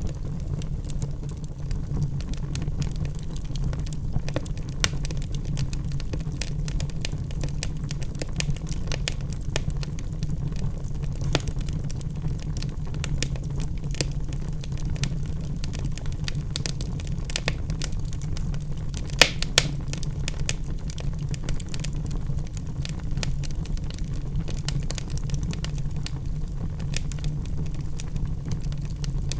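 Wood logs burning in a fireplace: a steady low rumble of flames under many small crackles, with two sharper pops about two-thirds of the way through.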